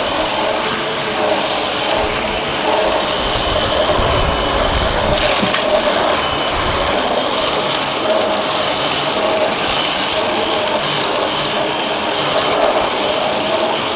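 Dyson vacuum cleaner running steadily under load, drawing about 1,100 W, with a high motor whine over a rushing hiss.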